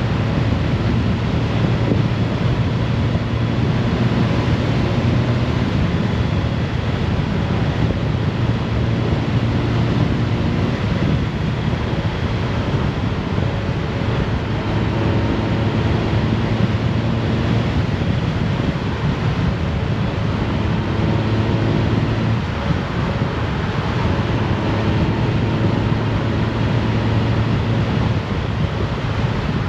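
Honda Gold Wing's flat-six engine running under way, with steady wind rushing over the microphone and road noise; the engine note shifts slightly in pitch a few times.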